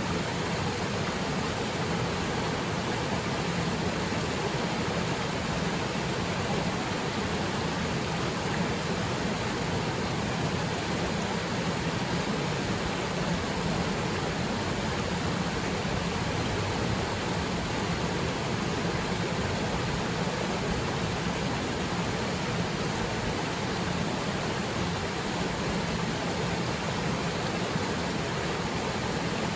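Haipua'ena Falls waterfall: a steady, unbroken rush of falling water.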